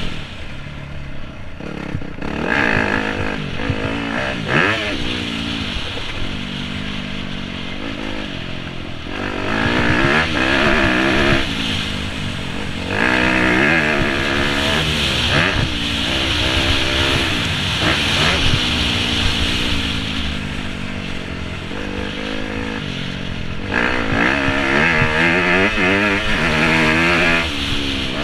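2017 Yamaha YZ250F's 250 cc four-stroke single-cylinder engine, heard on board during motocross laps, revving up and dropping back over and over as the rider accelerates, shifts and slows for the track.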